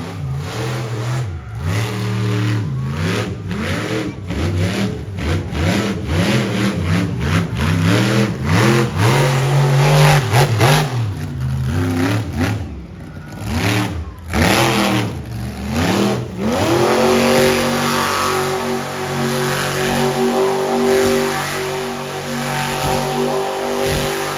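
Monster truck engine revving hard up and down again and again, with several sharp bangs around the middle. In the last several seconds it holds at a steady high pitch.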